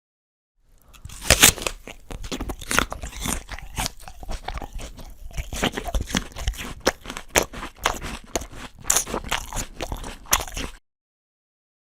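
A person biting into and chewing a crisp apple: sharp wet crunches, the loudest about a second and a half in, followed by steady crackling chewing. It starts after a short silence and cuts off abruptly near the end.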